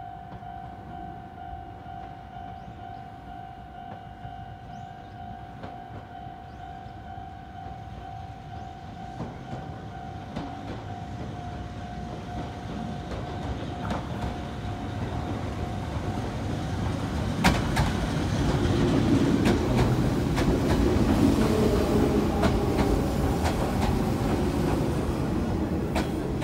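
A level crossing warning bell rings steadily and stops about two-thirds of the way through, as an Izuhakone Railway 3000 series electric train runs in. The train's running noise grows louder and its wheels click over rail joints as it slows beside the platform.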